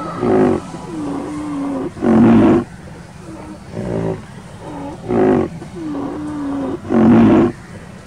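Rhinoceros calling: four short, loud calls, with lower, drawn-out wavering calls between them, in a pattern that repeats about every five seconds.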